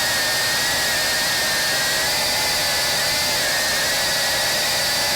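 Steady, high-pitched engine whine over a hiss, its pitch wavering slightly without rising or falling overall.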